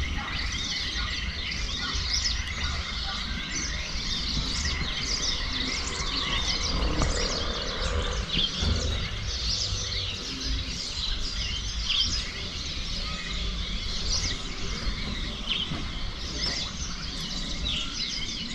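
Many small birds chirping and calling over one another in quick, overlapping bursts, over a steady low rumble.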